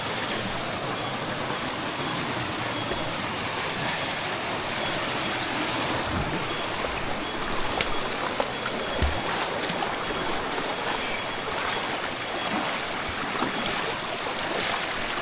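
Creek water rushing steadily over rocks, with a couple of soft low thumps about six and nine seconds in.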